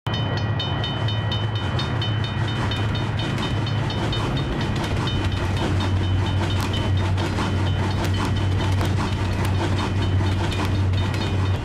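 Train passing over a level crossing: a rapid, regular high ringing for the first couple of seconds over a steady low rumble, then irregular clicks of wheels over the rails.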